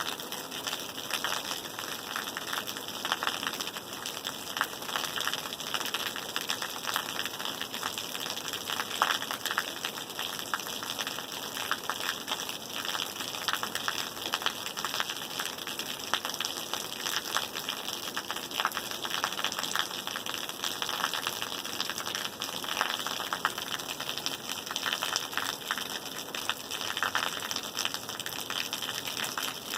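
Steady rain falling, a constant dense patter of drops with a full hiss.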